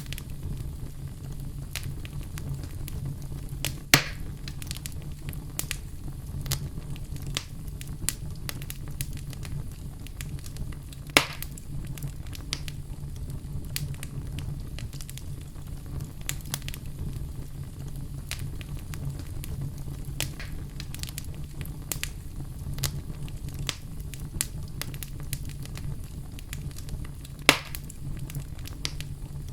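Wood campfire burning with a steady low rumble and scattered crackles, with three louder pops.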